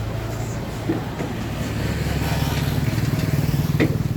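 Small motor vehicle engine running close by, a pulsing low drone that grows louder after about two seconds, with one brief sharp knock near the end.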